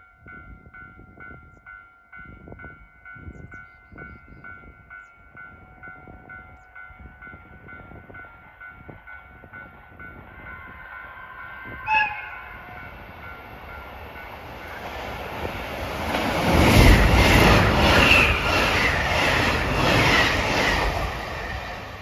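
A level-crossing warning bell rings rapidly at first. About twelve seconds in, a JR Hokkaido 789-series electric express gives a short horn blast, then passes at speed, its wheels rushing and clattering over the rail joints, loudest in the last few seconds.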